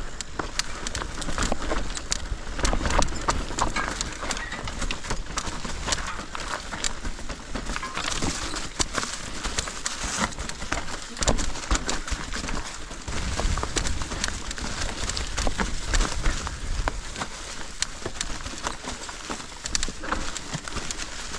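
Mountain bike riding down a rocky trail: a steady run of irregular knocks and clatter from tyres striking stones and the bike rattling, with low rumble underneath.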